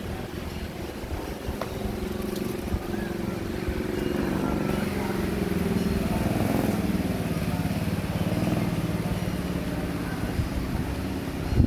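A motor engine running steadily, its pitch drifting slightly up and down, with a short loud knock at the very end.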